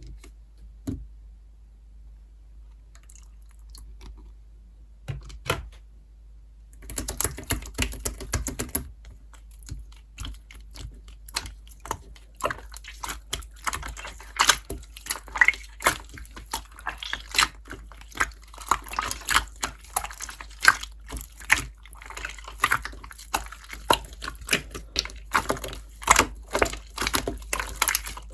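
Slime being squeezed and pressed by hand, making quick wet clicking and popping sounds. The clicks come only now and then at first and run on densely from about seven seconds in.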